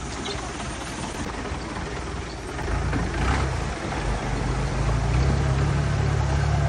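A vehicle engine running, its low hum growing louder about two and a half seconds in, over steady rushing noise.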